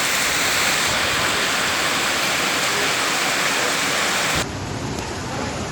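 Heavy rain pouring down, a steady dense hiss. About four seconds in the sound cuts abruptly to a quieter, duller noise with more low rumble.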